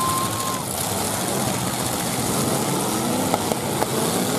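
Several 1980s full-size demolition derby cars' engines idling in the arena, with some revving up and down near the end. A brief steady high tone sounds in the first half-second, and a few sharp clicks come about three seconds in.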